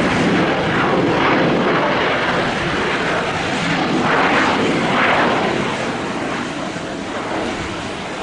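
Loud rushing jet noise from a Boeing 737-800's CFM56-7B turbofans on the runway. The sound swells briefly about four to five seconds in, then eases a little toward the end.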